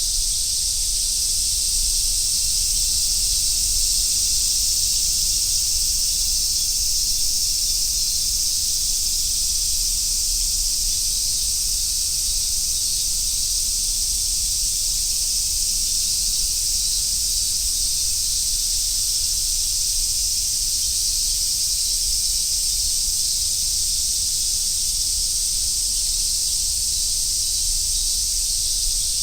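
Chorus of cicadas singing together in a steady, unbroken high buzz that neither swells nor pauses, with no separate calls standing out.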